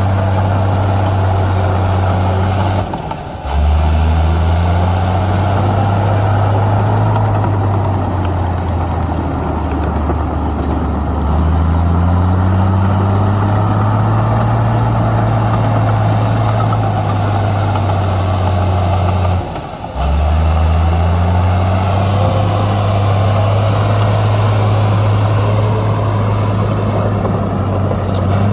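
Heavy diesel engine of a Komatsu bulldozer working, with a steady low drone that rises in pitch several times as the engine takes load. The sound breaks off briefly twice, then picks up again.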